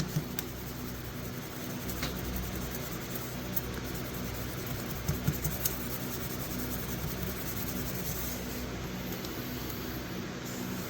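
Faint scratching of a folding-knife blade being hand-rubbed on very fine 10,000-grit abrasive, over a steady low hum, with a few light clicks.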